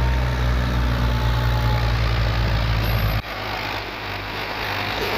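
Tractor engine running with a steady low hum; the sound cuts off abruptly about three seconds in, leaving quieter background noise.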